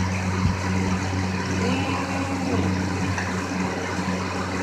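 A car idling with a steady low hum, under a constant hiss, with a single faint knock about half a second in.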